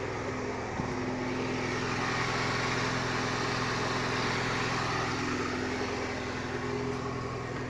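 Lada Niva's 16-valve four-cylinder engine, swapped in from a Lada Priora, running steadily at an even, idle-like speed.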